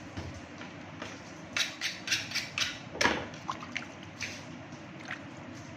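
Water splashing as a cleaned bonito is rinsed under a running tap, with a string of short splashes and knocks from handling the fish, the strongest about halfway through.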